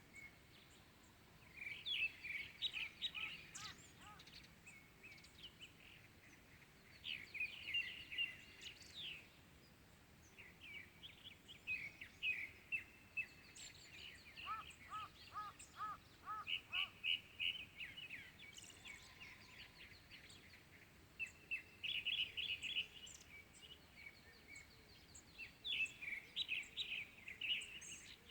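Several small birds chirping and singing in short bursts of quick high notes, over faint steady outdoor background noise. About halfway through, a lower call repeats about six times at an even pace.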